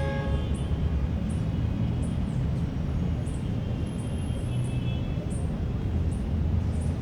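Park ambience: a steady low rumble of distant traffic, with short, high bird chirps repeating a little more than once a second.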